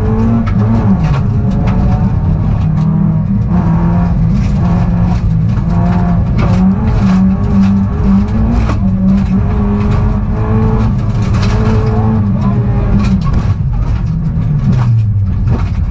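Peugeot rally car's engine heard from inside the cabin, running hard at high revs with brief dips in pitch at the gear changes. Near the end the pitch falls as the car slows.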